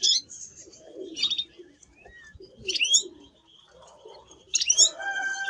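Spanish Timbrado canary singing: short bursts of quick rising chirps about every second and a half, then a steady held note near the end.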